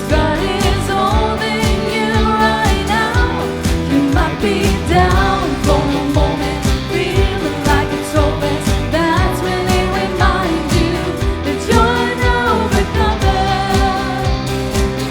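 Worship band performing a pop-style praise song, with a singer's melody over a steady drum beat and bass.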